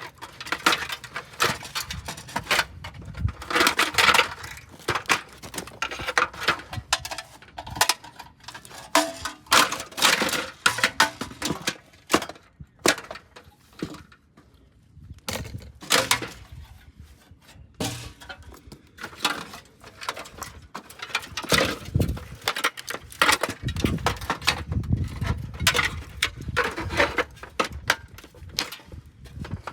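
A Hamilton Beach microwave oven being smashed apart: many irregular blows with breaking, cracking and clinking of broken pieces, easing off briefly about halfway through.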